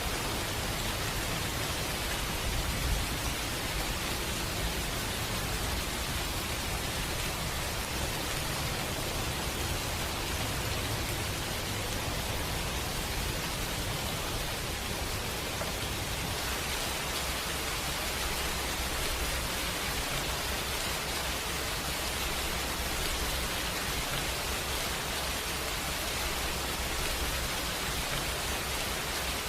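Steady rain falling, an even hiss with no pauses and one brief louder moment about three seconds in.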